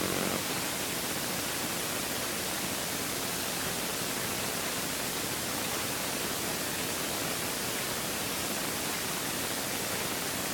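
Steady, even hiss of noise with no bangs, pops or other distinct events.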